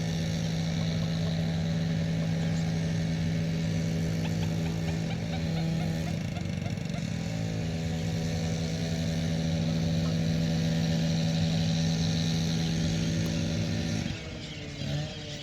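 Engine of heavy machinery working nearby: a loud, steady drone at an even pitch that drops away abruptly about a second before the end.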